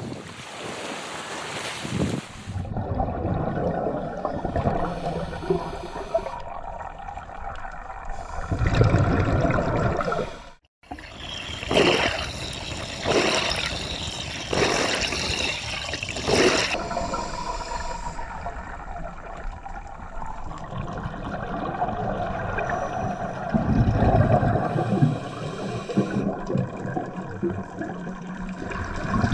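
Underwater water noise from a scuba dive: a continuous gurgling wash with louder bubbling surges, typical of a diver's regulator exhaust bubbles.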